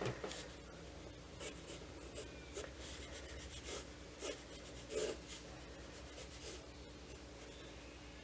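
Rapid sketching strokes scratching across sketchbook paper, a quick irregular run of short strokes that stops about two-thirds of the way through.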